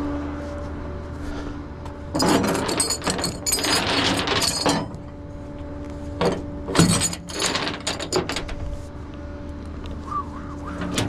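Metal tie-down chains and hardware clanking and rattling in two bursts, about two seconds in and again around six seconds in, over a steady engine hum.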